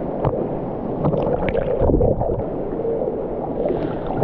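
River water sloshing and gurgling around people wading through a shallow canyon stream, with a few sharper splashes about a second or two in.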